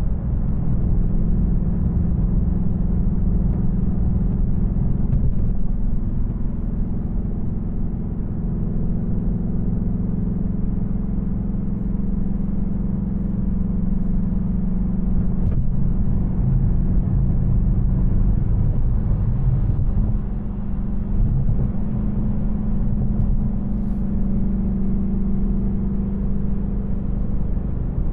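2024 Ford Mustang GT's 5.0-litre V8, without aftermarket headers, running steadily at a cruise, with road rumble underneath. The engine note eases briefly about 20 seconds in, then picks back up.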